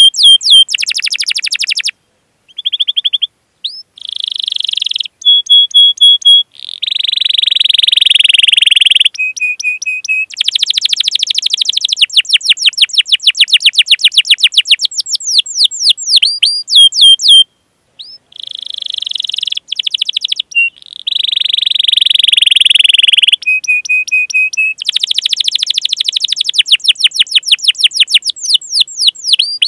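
Domestic canary singing a long, continuous song: rapid runs of falling chirps, fast rolling trills and held buzzy notes, each phrase repeated many times, with two brief breaks.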